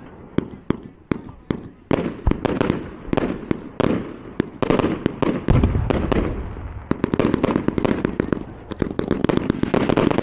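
Fireworks going off in quick succession: an irregular run of sharp bangs and pops, with a deeper boom about five and a half seconds in, then dense rapid crackling through the last few seconds.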